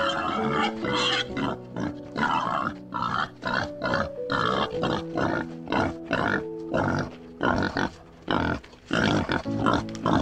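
Pigs grunting and squealing in short calls, one after another about every half second, over soft background piano music.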